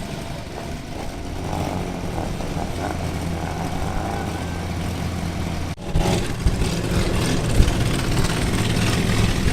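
Engine noise: a steady low engine hum, then, after an abrupt cut a little past halfway, a louder, rougher engine running unevenly with occasional sharper peaks.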